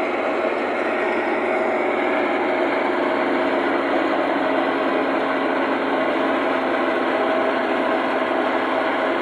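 A wheat thresher driven by a Millat tractor, running steadily: a continuous dense mechanical clatter and hum from the engine and threshing drum, with no change in pace.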